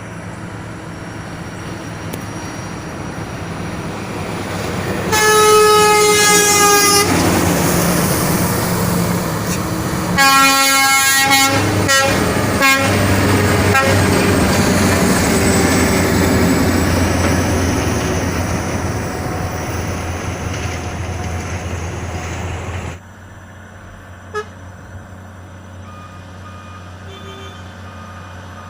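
Heavy water tanker truck running past with its engine building up, sounding its horn: one long blast about five seconds in, then a run of short toots a few seconds later. The loud engine sound cuts off abruptly near the end, leaving a much quieter background.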